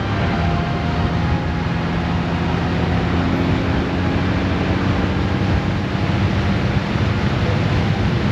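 Steady wind rush and road noise while riding a Honda Gold Wing DCT, with the low drone of its flat-six engine running underneath at a fairly constant speed.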